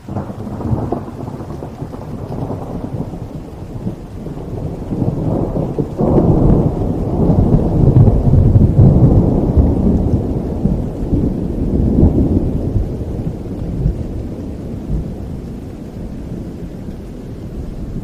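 Thunder over steady rain: a sudden loud crack at the start, then a long low rumble that swells again about six seconds in and slowly dies away.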